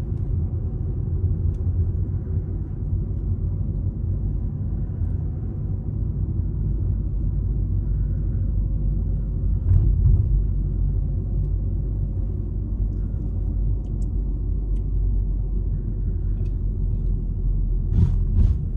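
Steady low rumble of a moving road vehicle, with a brief swell about ten seconds in and two sharp knocks near the end.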